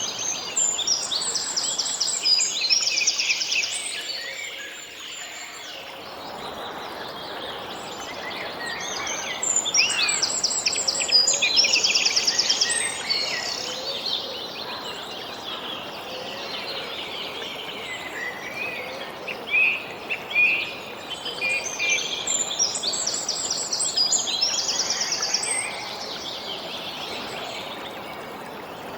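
Songbirds singing in bouts of quick, repeated high chirps and trills, three bouts several seconds apart, over a steady background hiss.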